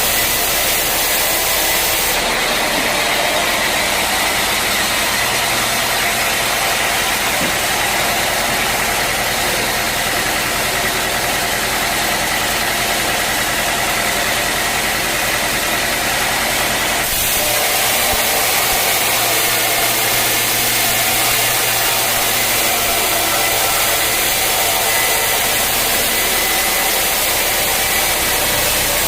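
Sawmill machinery running, a loud even mechanical noise whose sound changes abruptly about two seconds in and again about seventeen seconds in.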